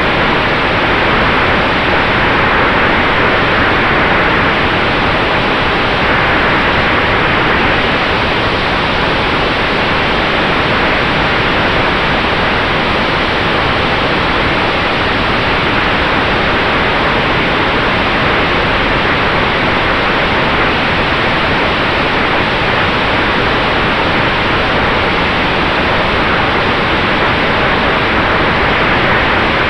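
Steady loud rush of airflow and propeller noise from the electric Sonex Xenos airplane in flight, with a faint steady whine underneath.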